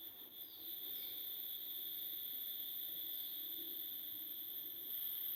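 Steady insect chorus holding two constant high-pitched tones, one shrill and one very high, with a few faint falling chirps over it.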